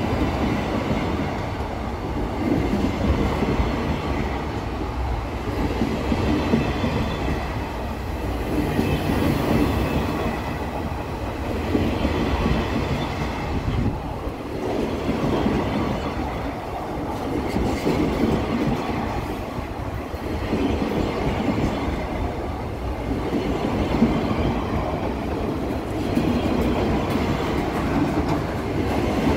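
Loaded covered hopper wagons of a freight train rolling past on the rails. The steady rumble and clatter of steel wheels swells and eases as each wagon's bogies go by.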